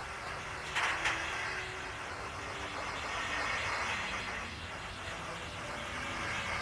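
Double-stack container freight train rolling slowly past, its wheels on the rails making a steady rolling noise. Two short sharp clanks come about a second in.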